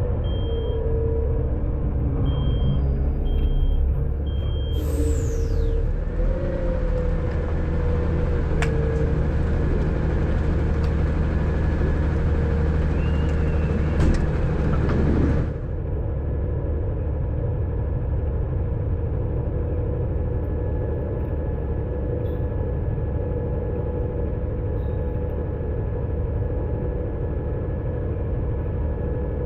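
Front-load garbage truck's diesel engine running with a steady low rumble, while a faint beeper sounds in regular beeps for the first few seconds. About five seconds in, a loud hiss of air starts suddenly with a brief falling whistle, runs for about ten seconds and cuts off, leaving the engine running.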